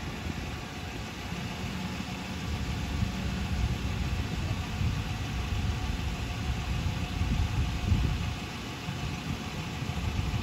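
Police patrol car idling, a steady low engine sound.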